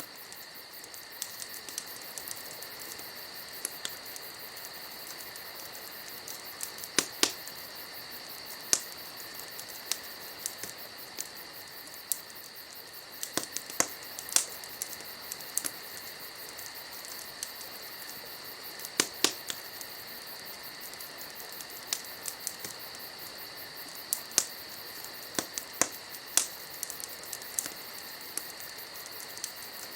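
Wood campfire crackling, with irregular sharp pops and snaps a few seconds apart, over the steady trilling of night insects such as crickets.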